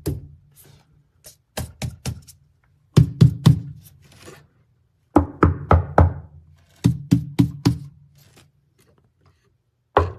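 Knuckle knocks on car body sheet metal, in quick groups of two to four, each group leaving a short low ringing hum. This is a knock test comparing panels covered with closed-cell foam sound deadening against bare metal, which rings like a bell.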